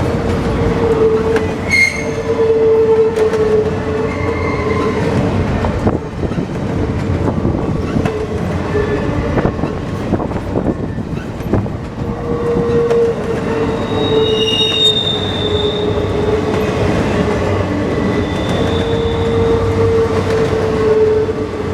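Empty intermodal freight cars of a Norfolk Southern train rolling past, loud and steady, with the wheels clicking over rail joints. A steel-wheel squeal comes and goes as a steady tone, rising to higher-pitched squeals about two seconds in and again past the middle.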